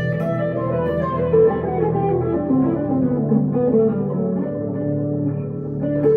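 Electric guitar, a 1962 Gibson Les Paul Custom through a Two-Rock Emerald Pro amp, playing a melodic line that runs down in a falling sequence of notes about a second in, the notes ringing over one another above sustained low notes.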